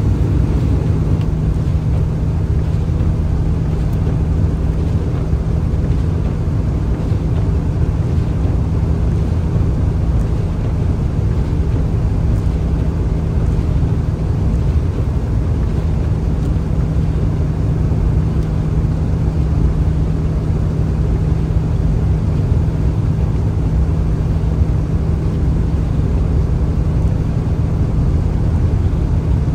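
A vehicle driving at a steady pace: an even low rumble of engine and road noise with a constant hum.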